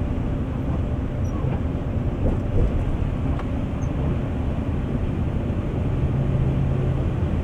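Bus engine and road noise heard from inside the cabin while driving: a steady low rumble and drone.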